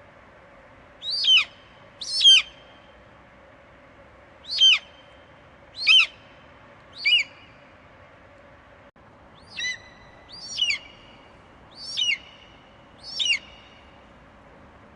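An eagle screeching repeatedly: nine short, shrill calls, each falling sharply in pitch, about one to two seconds apart.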